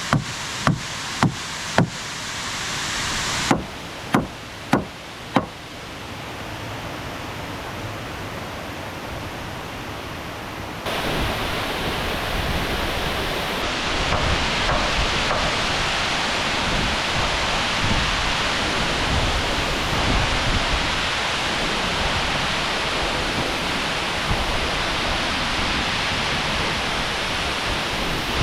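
Several sharp knocks at about two a second, then four more a few seconds in, followed by a steady rush of falling water. The rush gets abruptly louder and brighter about eleven seconds in.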